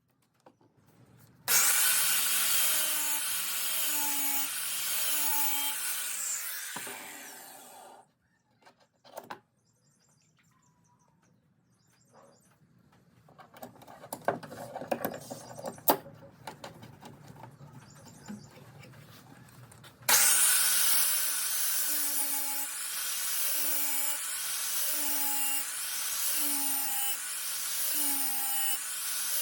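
Angle grinder grinding a spring-steel knife blade in two long stretches, the motor's pitch dipping about once a second as each pass loads it. Between the two stretches there is a quieter spell of rubbing with a few sharp clicks.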